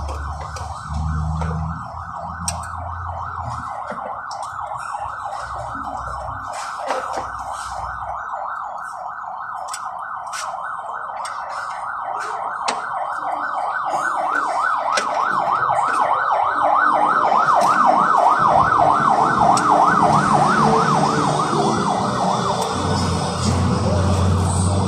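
A siren wailing in a fast, repeated up-and-down warble. It grows louder about two thirds of the way through, over scattered sharp clicks and knocks, with a low hum near the start and the end.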